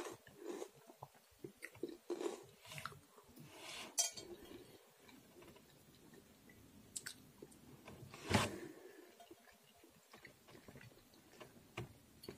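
Quiet chewing of a mouthful of food, with a fork scraping and clinking against a plate now and then; the loudest clink or knock comes about eight seconds in.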